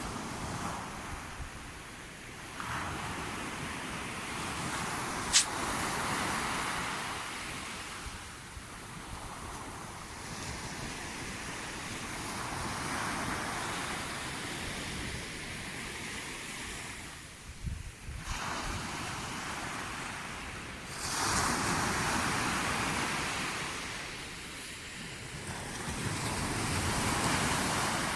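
Sea waves washing onto the shore, the surf rising and falling in slow surges a few seconds apart, with wind on the microphone. A single sharp click about five seconds in.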